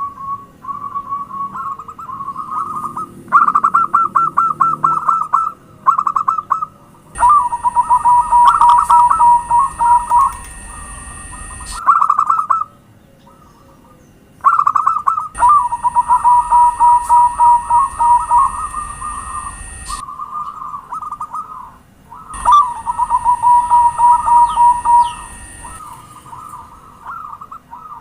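Zebra dove (perkutut) cooing: phrases of rapid, staccato coos, repeated with short pauses between them. Several phrases start and stop abruptly.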